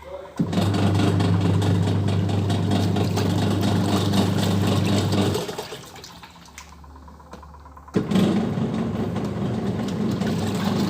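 Wash tub of a Sharp ES-T85CR twin-tub washing machine running: the motor and churning water start about half a second in, stop a little past halfway for about two and a half seconds, then start again as the pulsator reverses direction.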